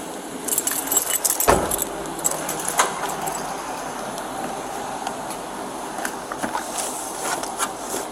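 Metal jingling and clinking, with one sharp thump about one and a half seconds in and more jingling near the end, over steady background noise.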